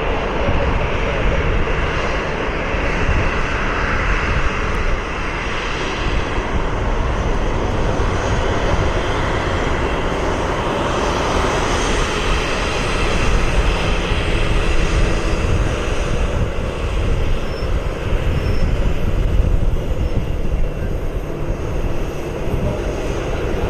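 Jet airliner engines heard from the ground: a loud, steady rush of engine noise that holds throughout.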